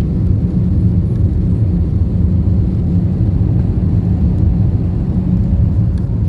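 Steady low rumble of a jet airliner's engines and airflow heard inside the passenger cabin, with a faint steady hum above it.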